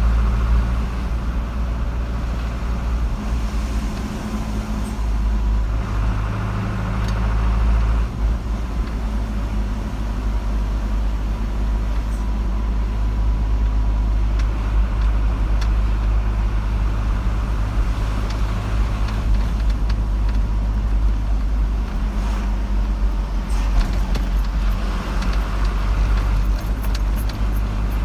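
A car being driven on a paved road: the engine and tyres make a steady, low rumble.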